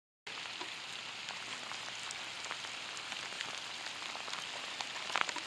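Heavy rain pouring onto lake water: a steady hiss flecked with the small ticks of single drops. It comes in after a brief moment of dead silence at the start.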